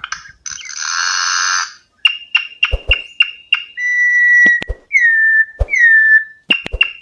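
Campo troupial (corrupião) song: a short harsh rasp, then a quick run of clipped repeated notes about five a second, a clear held whistle, and two whistles that fall in pitch before the rapid notes return.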